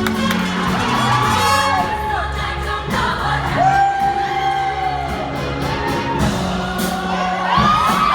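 Amplified pop music with singing over a steady beat and bass line, with a long held sung note near the middle.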